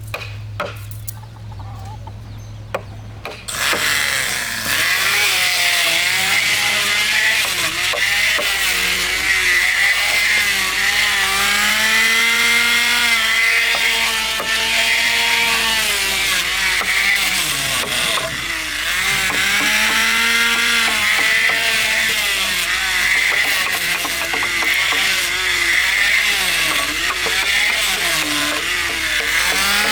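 A power tool cutting into timber. It starts about three and a half seconds in, after a low hum with a few clicks. It then runs loudly, and its pitch dips and recovers every couple of seconds as the cut loads the motor.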